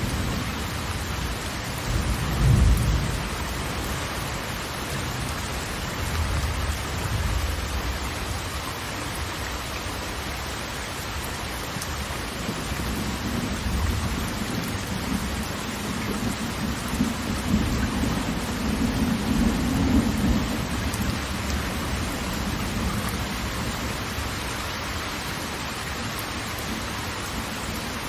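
Waterfall: a steady rush of falling water. A deep rumble rises out of it about two seconds in, and swells again twice, the longest in the second half.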